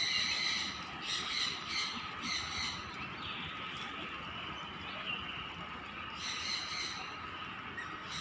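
Birds squawking with harsh, raspy calls: four short calls in quick succession, then another about six seconds in, over a steady faint high tone.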